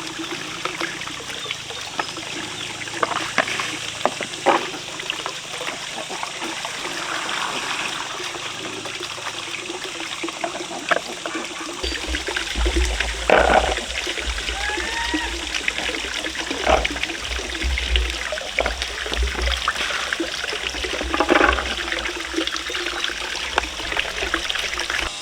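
Water trickling steadily, with scattered knocks and a few short rising chirps; a low rumble comes in about halfway through.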